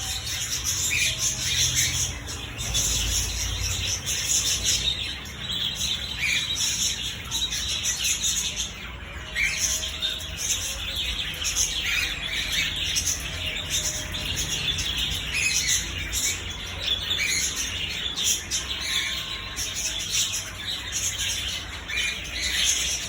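A crowd of birds of several kinds chirping and calling at once, a dense, unbroken chatter of short high chirps.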